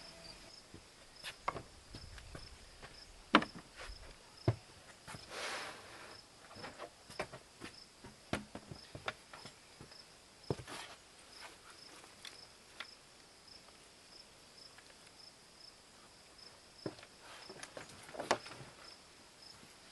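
Crickets chirping steadily in fast, even pulses, with scattered sharp clicks, knocks and a brief rustle from close by.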